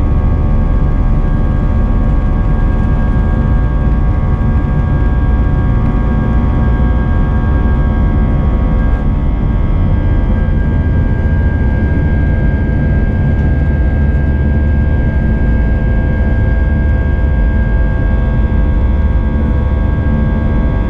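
Airbus A320-232 jet engines heard from inside the cabin: a steady, loud drone with a deep rumble and several steady whining tones that hold unchanged throughout.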